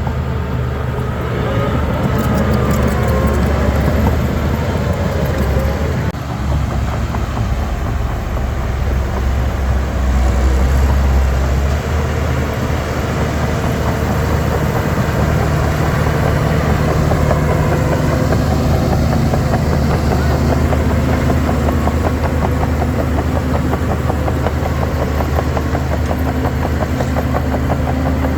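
Diesel engine of a Shantui DH17 C3 bulldozer running steadily while it works. The engine pitch shifts a few seconds in and again about two-thirds of the way through.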